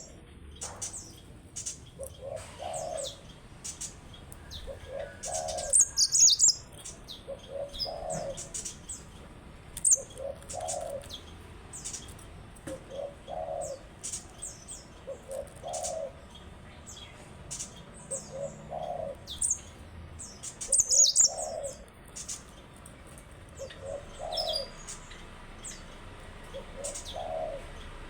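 Yellow-fronted canary giving short, high chirps and brief song bursts, loudest about six seconds in and again about twenty-one seconds in, over a low coo repeating steadily about every second and a half.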